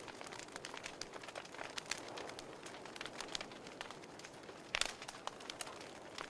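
Wood fire burning in a fireplace: a soft steady hiss with many small irregular crackles and pops, and a louder cluster of pops a little before five seconds in.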